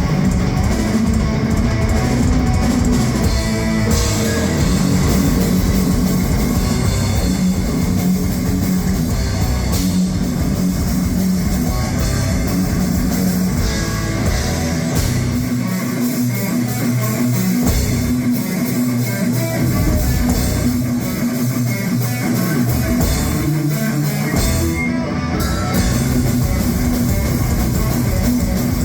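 A heavy metal band playing live: electric guitars over a drum kit. Between about 15 and 24 seconds in, the deep bass drops out for several short stretches.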